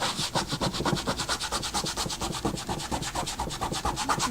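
Quick, even back-and-forth scrubbing on a gesso-coated paper surface, several strokes a second, rubbing gesso off like sandpaper to let the colour underneath show through.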